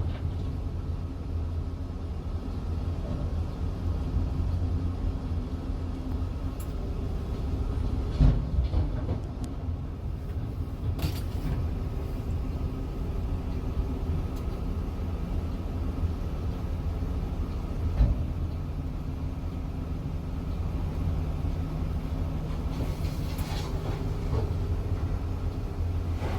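Large Caterpillar 345 hydraulic excavator's diesel engine running steadily under work, a deep rumble with a steady hum. Loud knocks land about eight seconds in and again near eighteen seconds, with lighter clanks between.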